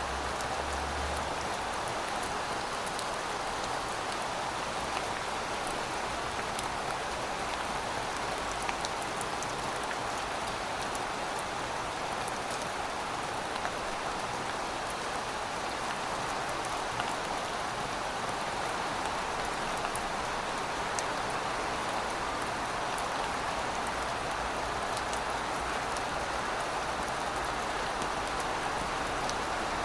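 Heavy rain falling steadily, a dense even hiss with individual drops ticking on a hard surface.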